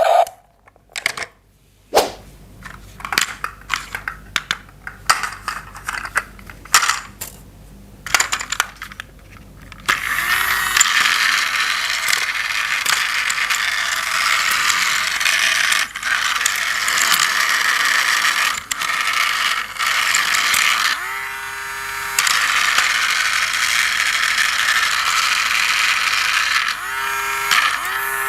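Plastic toy train parts clicking and knocking as they are handled and fitted together. About ten seconds in, a small battery-powered toy train motor starts and runs with a steady geared whir.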